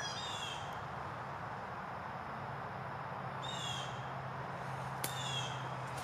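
A bird giving three short, downward-slurred calls about one and a half to two seconds apart, over a steady low hum. These are the agitated calls of birds that have started to make a commotion in the woods.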